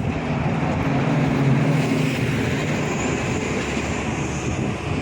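A vehicle going by: a steady low mechanical rumble that swells to its loudest about a second and a half in, then eases off.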